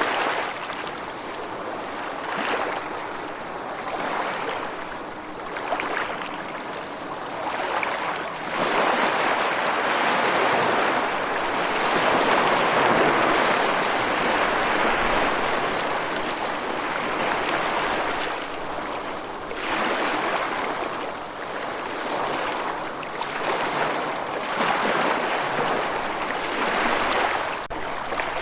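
Running water rushing in a steady hiss that swells and eases every few seconds, louder through the middle stretch.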